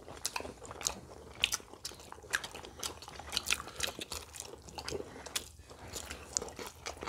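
Close-up eating sounds: chewing and crisp bites into fried food such as old-style Korean fried chicken, with short crunches scattered irregularly.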